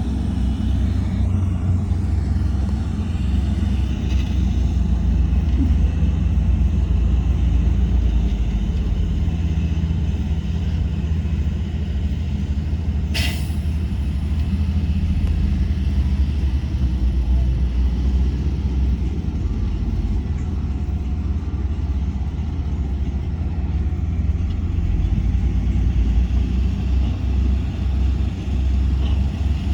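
Heavy diesel earthmoving machinery running steadily with a low rumble, with one brief sharp noise about 13 seconds in.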